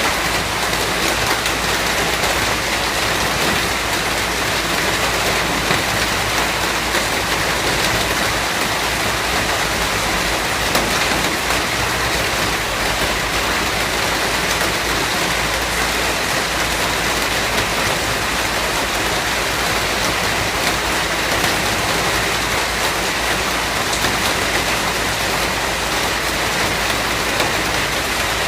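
Steady rain falling and pattering on surfaces, an even dense hiss with fine scattered drops and no change in intensity.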